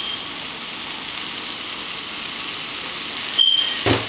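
Pulled pork in barbecue sauce sizzling steadily in a metal pan on the stove. Near the end a spoon scrapes briefly against the pan, then knocks against it.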